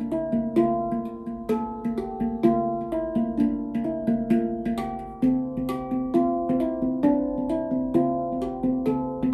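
Stainless-steel D Kurd handpan with ten notes, tuned to 432 Hz, played by hand: a quick, continuous run of struck notes that ring and overlap. About five seconds in, a deeper note rings out more strongly under the melody.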